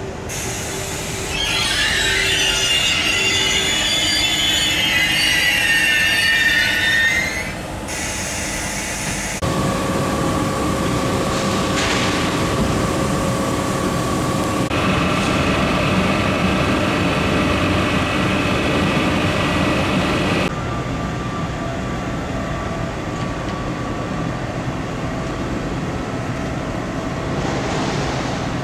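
Train wheels squealing in wavering high tones for several seconds, then the steady rumble and hum of a train with several steady whining tones.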